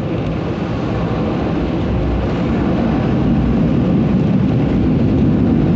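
Automatic car wash air dryer blowers blasting air over a truck: a loud, steady rushing noise that grows slightly louder.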